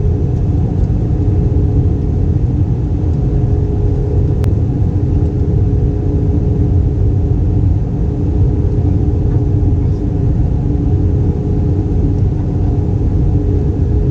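Airbus A320 cabin noise: a steady low rumble of engines and airflow with a constant hum, and a faint tick about four seconds in.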